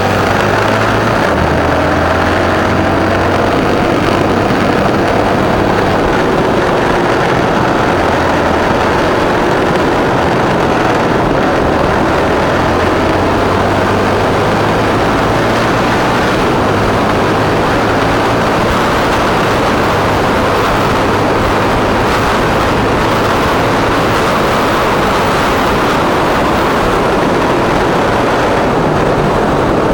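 Motorcycle engine running on the move, under steady wind and road rush; the low engine note shifts pitch a few times.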